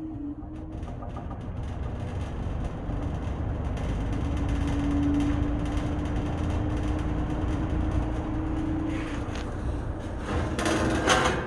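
Eskimo 20137 20-inch McGraw-Edison box fan running on low speed. The motor hums and the air rushes, rising as the blades come up to speed and then holding steady, with faint ticking in the first few seconds. A brief louder burst of noise comes near the end.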